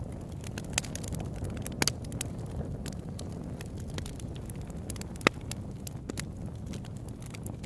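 Campfire burning: wood crackling with scattered sharp pops over a steady low rush of flame, the loudest pop about five seconds in.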